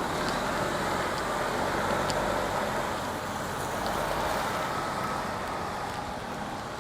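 Traffic on a rain-wet city street: tyres hissing on the wet road as a vehicle passes, the rushing swelling over the first few seconds and then easing, with a few faint ticks of rain.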